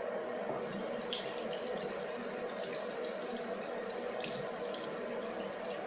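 Bathroom sink tap running steadily, with water splashing into cupped hands from about half a second in.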